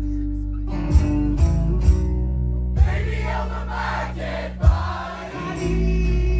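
Rock band playing an acoustic song live: sustained acoustic guitar and bass chords under singing voices, with sharp percussive hits every second or so and a short dip in level just after the loudest hit, about two-thirds of the way in.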